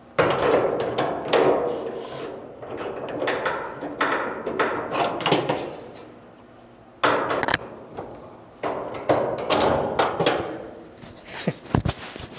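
Irregular metal clanks and knocks, from parts and tools being handled and struck at a workbench, some of them ringing briefly. They start suddenly just after the beginning, fall quieter for about a second past the middle, then pick up again.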